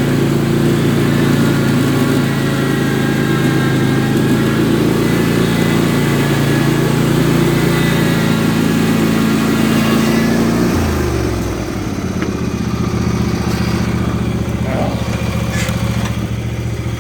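Husqvarna mower's engine running steadily, then throttled down about eleven seconds in, settling to a lower, slower idle.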